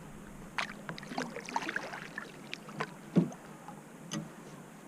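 Small water splashes and light knocks from a kayak on the water, with a sharper knock about three seconds in.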